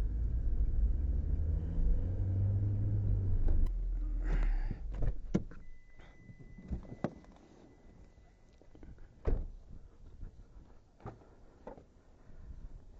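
Car running, heard from inside the cabin as a strong low rumble that stops about four and a half seconds in, as if the engine is switched off. Then scattered clicks, a steady high tone lasting about three seconds, a single loud thud near the middle and a few lighter knocks.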